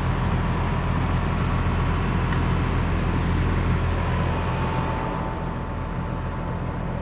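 Newly installed heat pump system running: a steady low mechanical hum with constant whooshing noise and a faint steady tone, easing off slightly about five seconds in.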